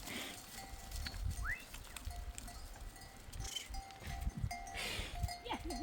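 A flock of livestock, with bells ringing on and off and a wavering bleat near the end. Low rumble runs underneath.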